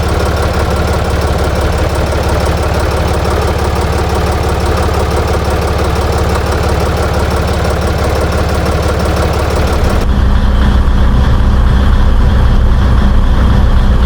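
Ditch Witch 5010's three-cylinder air-cooled Deutz diesel idling steadily. About ten seconds in the sound abruptly turns louder and deeper, with less hiss.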